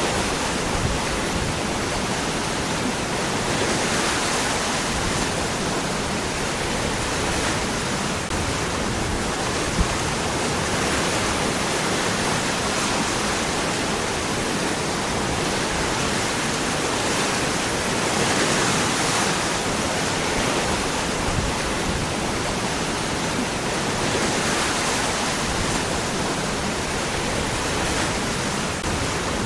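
Waterfall: water pouring and splashing over rocks in a steady full rush, swelling slightly every few seconds.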